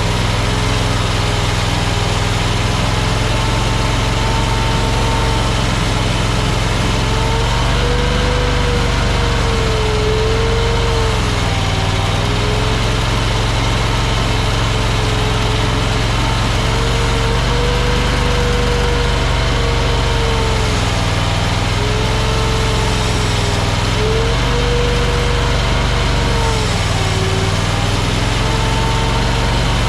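Engine of an AGT LRT23 compact track loader running steadily while working, with a whine that repeatedly dips and rises in pitch.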